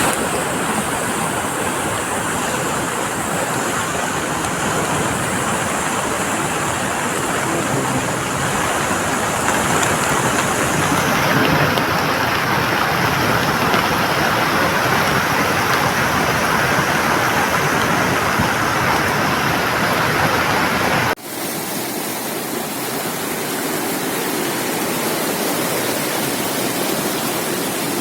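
Loud, steady rushing of water in heavy rain. About three quarters of the way through it breaks off sharply and resumes with a thinner sound.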